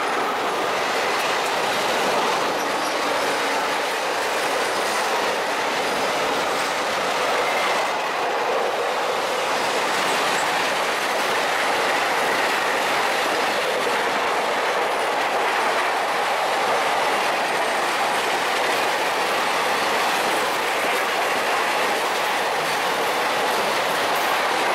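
Loaded container wagons of a freight train rolling past at close range: a loud, steady noise of steel wheels on the rails, with faint squealing tones from the wheels now and then.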